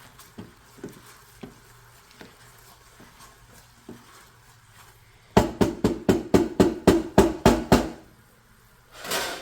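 Spoon stirring a butter glaze in a pot, with light clinks against the pot, then a quick run of about a dozen loud knocks, roughly five a second, as the utensil strikes the pot. A short rushing noise comes near the end.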